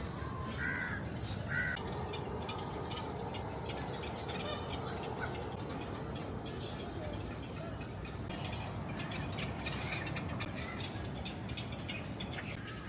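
Birds calling in a walk-in aviary, with two short harsh calls about a second in and scattered high chirps after, over a steady low background noise.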